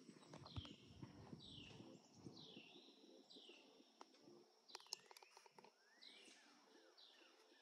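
Faint birdsong: one short chirp, swept down and back up, repeated about once a second over quiet outdoor ambience, with a few faint clicks about five seconds in.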